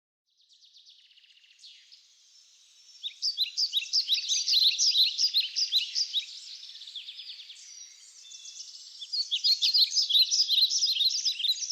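Birds chirping: a fast run of many short, high chirps, swelling louder about three seconds in, easing off, and rising again near the end.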